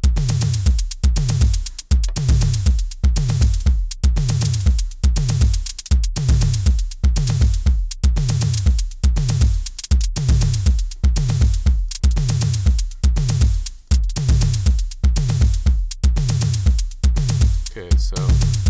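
Programmed drum-machine beat playing back: a deep bass drum whose pitch drops on each hit, about two hits a second with some pairs in quick succession, over fast, even hi-hat ticks. The bass drums come across as a little overpowering.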